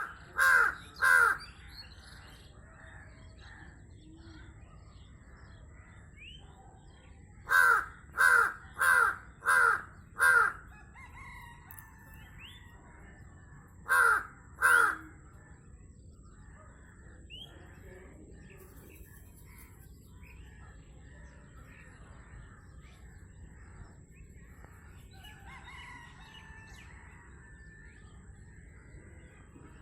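A bird calling loudly from a roof in short, harsh calls: two, then a run of five, then two more, each call under half a second. Fainter chirping from other birds goes on between the runs.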